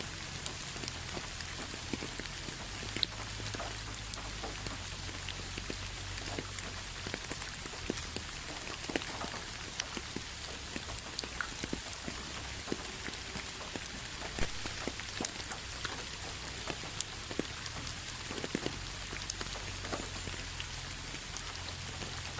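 Steady rain, a continuous hiss with many separate drops pattering sharply on a surface and a low rumble underneath.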